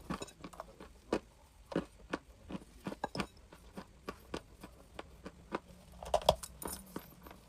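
Close-up crunching as someone bites and chews dry chalk: irregular sharp crunches, about one or two a second, with a louder bite about six seconds in.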